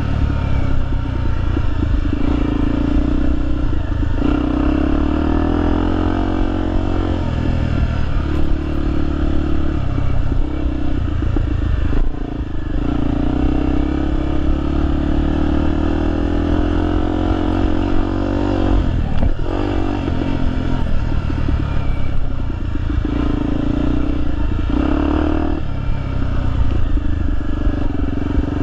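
Honda Tornado XR 250's single-cylinder four-stroke engine revving up and easing off again and again, its pitch climbing with each burst of throttle and then dropping back.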